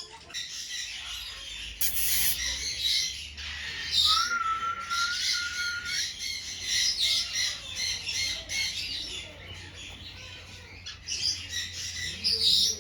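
Many parrots squawking and chattering over one another, in dense short calls. One bird holds a slightly rising whistled note for about two seconds near the middle.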